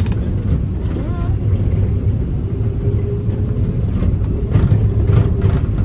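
A road vehicle driving, heard from inside the cabin: a steady low engine and road rumble.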